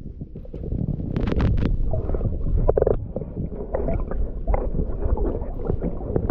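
Rumbling water and wind noise on the microphone from a boat in a lagoon, with a few sharp knocks a little over a second in.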